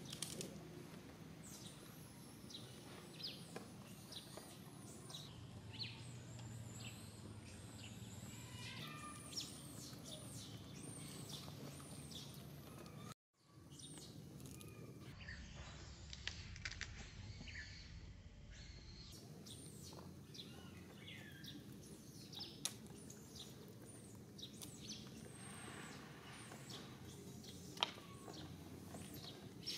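Birds chirping: many short, high chirps falling in pitch, over steady outdoor background noise. The sound cuts out for a moment about halfway through.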